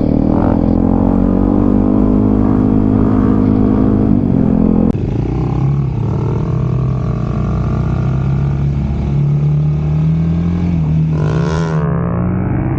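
Dirt bike engine running under way, its note rising slightly at first. About five seconds in the note changes abruptly and then holds at a lower steady pitch.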